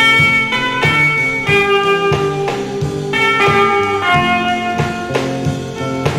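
Instrumental break of a garage surf rock song: a guitar plays a melodic lead in held notes over bass and drums.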